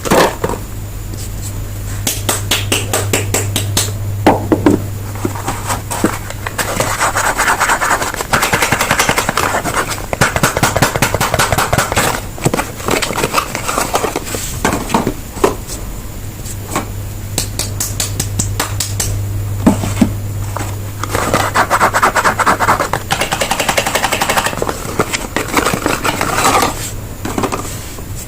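Soap bars being unwrapped and handled: packaging crinkling and crackling, with rapid clicks, scraping and rubbing, over a low steady hum that stops near the end.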